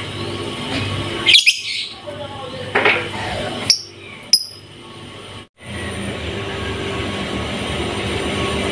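Pet songbird giving a few short, sharp chirps over a steady background rumble. About halfway through the sound cuts out for a moment, and only the steady rumble follows.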